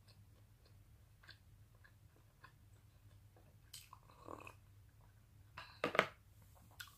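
Faint close-up eating sounds: small wet mouth clicks while chewing, a sip from a cup about four seconds in, and a sharp clink or knock about six seconds in.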